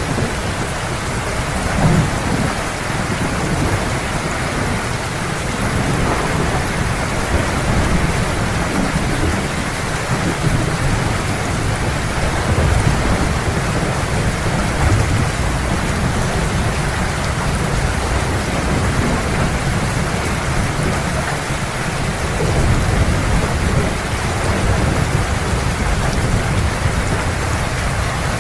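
Heavy, steady rain with the low rumble of thunder rolling underneath, swelling a few times.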